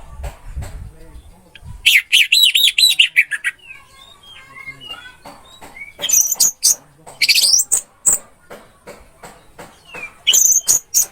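Orange-headed thrush singing in bursts of rapid trilled and whistled phrases, with softer varied whistles between them, over a run of sharp clicks. A low rumble sounds in the first second or so.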